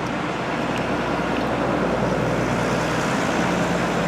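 A 2018 Ford Mustang's 5.0 V8 running steadily with road noise as it is driven around a short test course.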